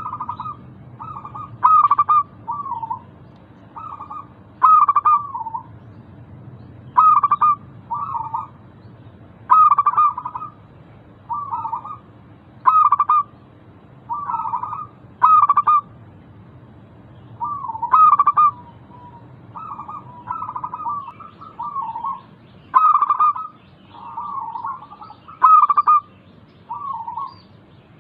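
Zebra dove (perkutut) cooing: short, rapid coo phrases pitched around 1 kHz, repeated every second or two. A faint low hum runs underneath.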